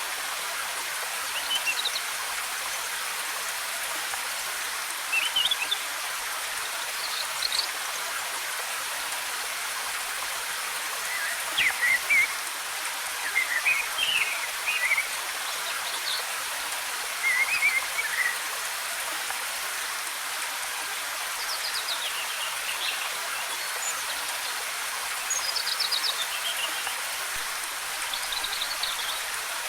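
Steady rush of a waterfall's cascading water, with forest birds chirping in short, quick phrases every few seconds, most often in the middle of the stretch.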